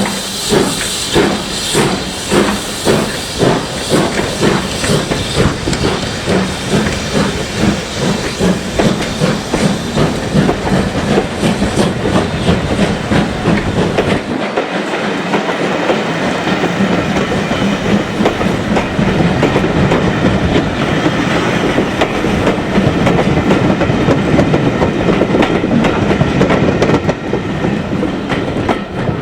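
Steam locomotive pulling away: its exhaust chuffs come about two a second, then quicken and merge into a steady rush with hiss as the train gathers speed and rolls on.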